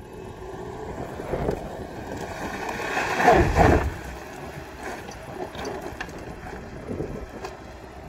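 Jeep Renegade Trailhawk's engine pulling under load as the SUV climbs a steep rock slab, growing louder to a peak about three to four seconds in, then easing off, with wind buffeting the microphone.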